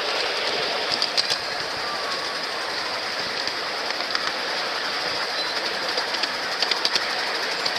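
Train running along its track, heard from aboard: a steady rolling rumble with two quick clusters of wheel clicks over the rail joints, about a second in and again near the end.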